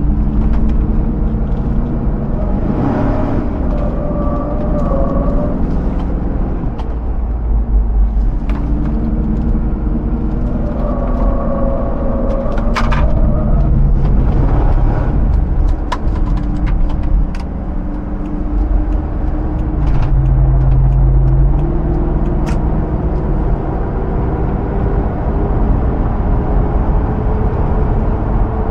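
Hummer H2's 6.0-litre V8 running as the vehicle is driven, with a heavy low road rumble underneath. The engine note shifts in pitch several times as speed and load change, and a few short knocks come through.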